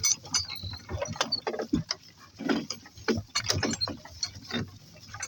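Donkey-drawn cart rattling and creaking as it rolls, an irregular run of clicks and knocks.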